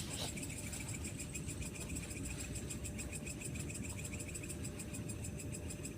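Night insects chirping steadily in fast, even pulses, a high trill with a lower one beneath it, over a low background hum.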